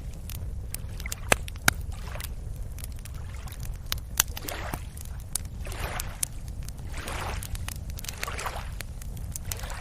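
Small waves lapping and washing at the shore, each wash a swelling hiss about every second or so, over a steady low rumble. Scattered sharp clicks run throughout, with two louder ones about a second and a half in.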